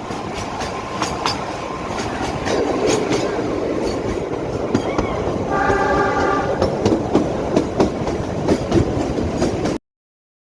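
Narrow-gauge train running, its wheels clicking steadily over the rail joints, with a horn sounding for about a second midway. The sound cuts off abruptly near the end.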